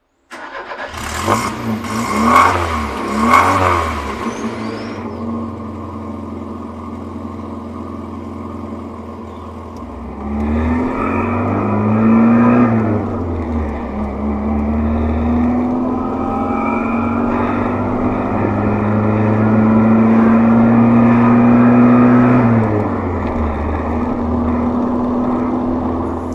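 1987 VW Voyage's AP 1.6 four-cylinder engine driving under load, with a few loud clattering knocks in the first four seconds. The revs climb from about ten seconds in, drop at a gear change near thirteen seconds, then climb slowly again and ease off near the end.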